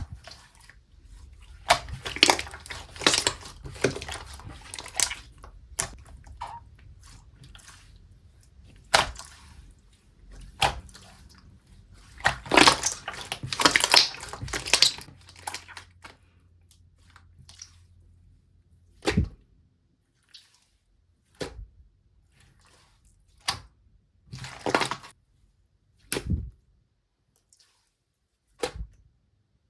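Slime being squished and pressed by hand: bursts of wet, crackly clicks and pops, thinning out to single sparse pops in the second half.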